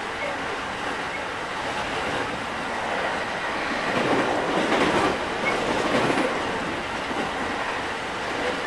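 Running sound inside a JR 205 series 5000 electric commuter train: the wheels rumble steadily on the rails, growing louder for about two seconds midway.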